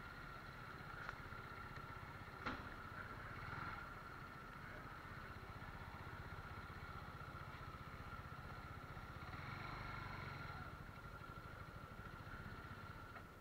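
Bajaj Pulsar 150 NS motorcycle engine running steadily, with a single sharp click about two and a half seconds in.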